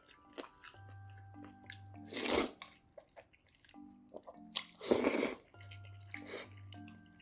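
Close-miked eating sounds: two loud, noisy bites or slurps about two and a half seconds apart, with small chewing clicks between them, over background music with a steady bass line.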